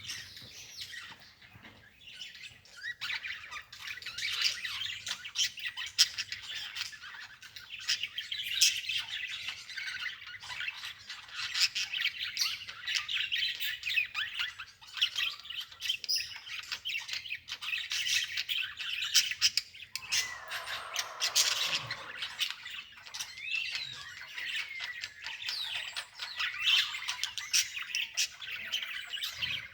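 Many small birds chirping and squawking in a dense, continuous chorus. About two-thirds of the way in, a lower call slides down in pitch.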